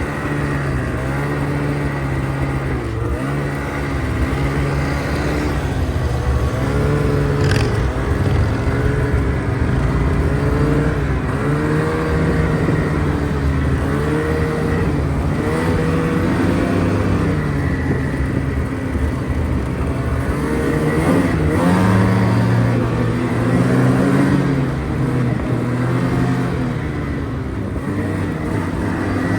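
Snowmobile engine running under way, its revs rising and falling again and again as the sled is ridden.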